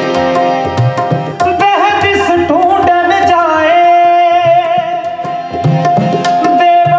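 Sikh kirtan music: tabla strokes keeping a steady rhythm under harmonium and singing, with a melodic vocal run in the middle and a long held note in the second half.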